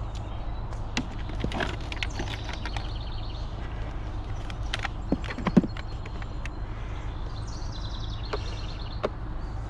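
Scattered clicks and knocks of scrap and a cord being handled, with a louder knock about five and a half seconds in, over a steady low rumble.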